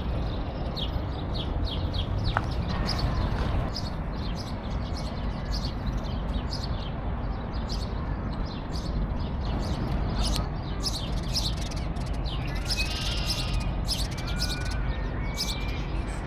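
Small birds chirping and singing, many short high chirps in quick succession, thickening about two-thirds of the way through, with a few short whistled notes near the end, over a steady low rumble.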